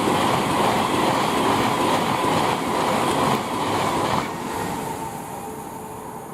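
Class 390 Pendolino electric train running past on the main line with a loud rushing noise of wheels and air. The noise drops away about four seconds in as the last coach clears, then fades.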